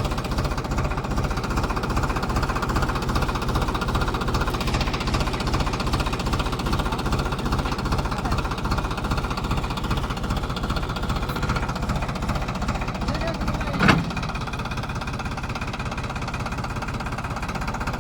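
Tractor diesel engine working hard under load with a rapid pulsing beat, trying to pull a stuck tractor and trolley out of mud. A single sharp knock about 14 seconds in, after which the engine is a little quieter.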